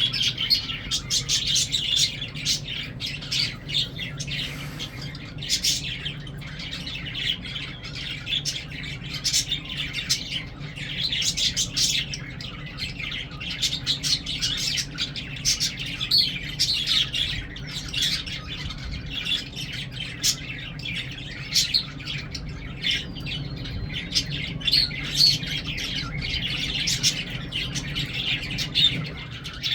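A group of lovebirds chattering, with rapid high-pitched chirps and squawks overlapping without pause, over a steady low hum.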